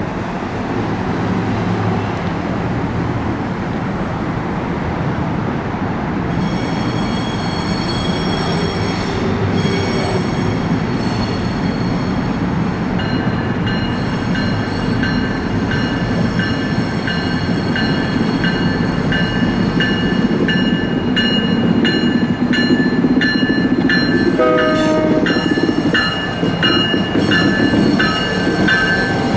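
Train passing close by: a steady rumble of wheels on rail. High-pitched ringing tones join about six seconds in and grow stronger partway through, and a rhythmic clicking runs through the second half.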